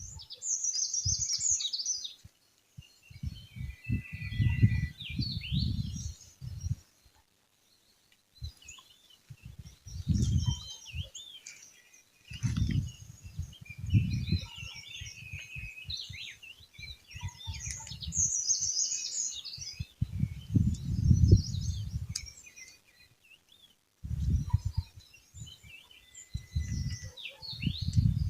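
Several small birds chirping and trilling, many short high calls overlapping, with repeated bursts of low rumble that come and go every second or two.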